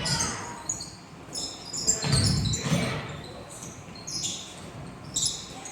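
Basketball bouncing on a gym floor during play, with short high squeaks of sneakers on the hardwood scattered throughout; the thuds come mostly between two and three seconds in.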